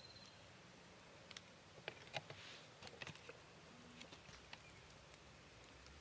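Near silence in the woods, with a short cluster of faint sharp clicks and crackles between about one and a half and three seconds in.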